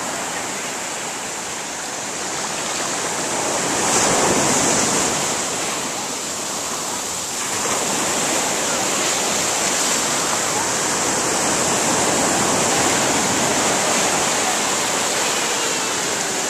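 Ocean surf breaking and washing up the beach, a steady rushing noise that swells about four seconds in and again from about halfway.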